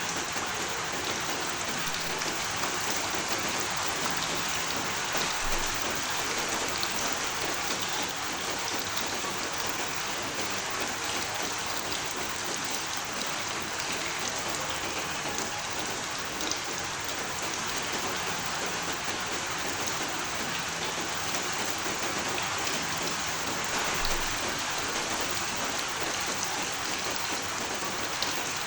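Steady rain falling, an even hiss of many drops with a few louder single drops now and then.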